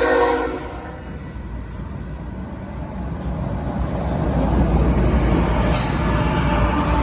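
A freight train's horn chord cuts off about half a second in, then the rumble of the diesel locomotive and rolling train builds steadily louder as it approaches. A short hiss comes near the six-second mark.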